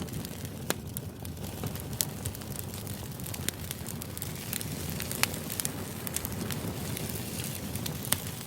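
Crackling fire ambience used as study white noise: a steady low rumble with scattered sharp crackles and pops.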